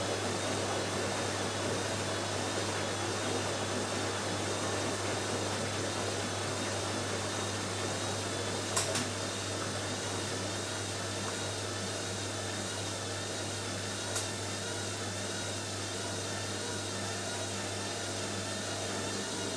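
Washing machine on its spin cycle: a steady hum and whir from the fast-spinning drum, with two brief clicks about nine and fourteen seconds in.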